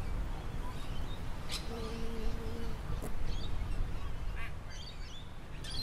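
Garden ambience: small birds chirping intermittently over a steady low rumble, with a low droning tone for about a second near two seconds in and two sharp clicks.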